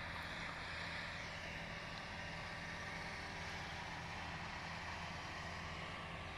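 Engine of a heavy farm vehicle running steadily at a faint, even level, with no change in pitch.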